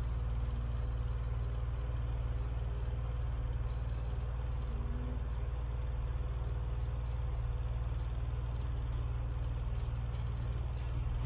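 Comfort Zone 9-inch cradle fan with aluminium blades running steadily: an even rush of air with a heavy low rumble and a faint steady hum.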